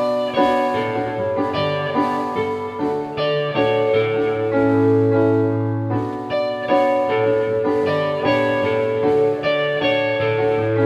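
A live band playing a song's instrumental intro: keyboard chords over bass and guitar, starting suddenly just before and carrying on steadily, leading into the vocal entry.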